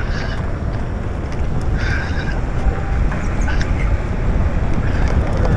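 Wind rushing over the microphone and tyre noise while riding an e-bike, with a short high-pitched chirp about two seconds in.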